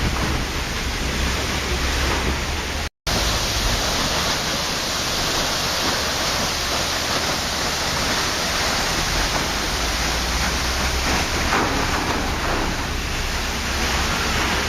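Waterfall: a steady, dense rush of falling water, broken by a split-second dropout to silence about three seconds in.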